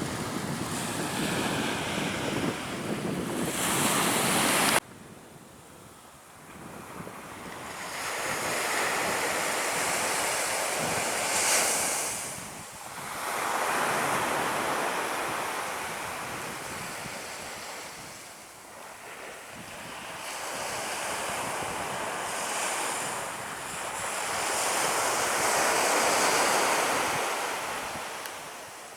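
Surf breaking on a beach with wind buffeting the microphone: a noisy wash that swells and fades every few seconds. It cuts off abruptly about five seconds in, then builds again.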